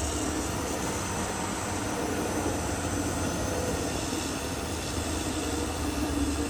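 Caterpillar D6R XL crawler bulldozer working, its diesel engine running steadily under the noise of its steel tracks.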